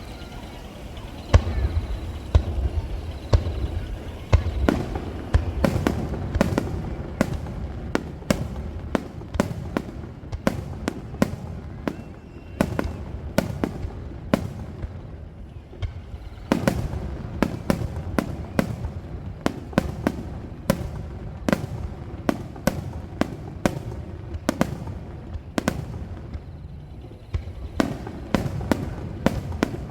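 Star mine fireworks barrage: shells launching and bursting in rapid succession, many sharp bangs a second over a continuous low rumble. It starts with a loud bang about a second in and thins out briefly a couple of times.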